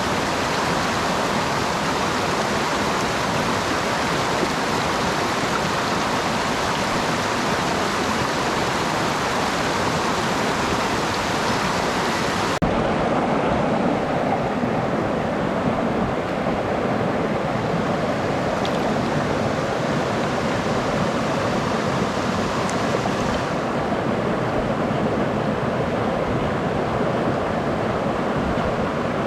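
Mountain stream rushing steadily. About halfway through it cuts abruptly to a duller, lower-pitched rush.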